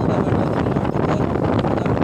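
Steady wind rushing over the microphone of a moving motorcycle, mixed with engine and road noise.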